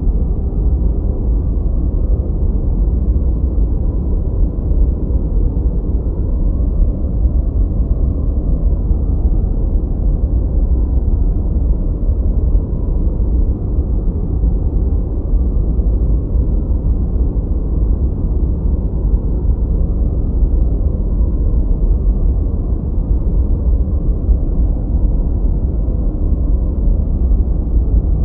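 Continuous generated white noise: a steady deep hiss, strongest in the bass and cut off above the midrange, with no changes.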